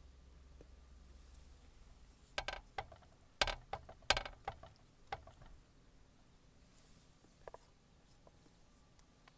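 A short run of sharp clicks and knocks, bunched together a couple of seconds in and fading out within about three seconds, then two faint ticks later over a quiet background.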